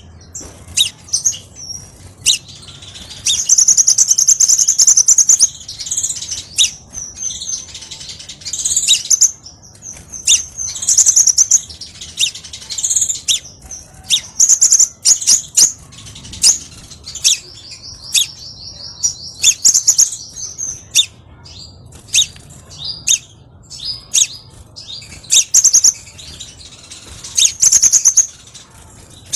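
Crimson sunbird (kolibri sepah raja) singing: rapid high-pitched chirps and fast trilled runs, delivered in repeated bursts with short gaps between.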